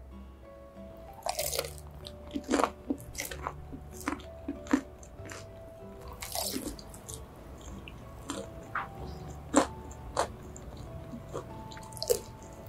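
Close-miked biting and chewing of crispy boneless fried chicken: irregular sharp crunches of the fried coating, over soft background music.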